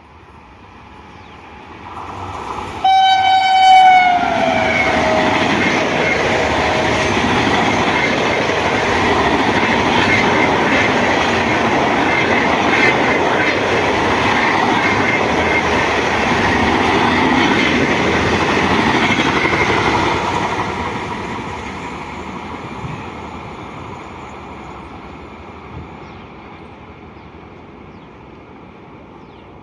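Indian Railways express train passing at speed. The locomotive horn sounds about three seconds in and drops in pitch as it goes by, followed by some fifteen seconds of wheels clattering over the rails, which then fade away.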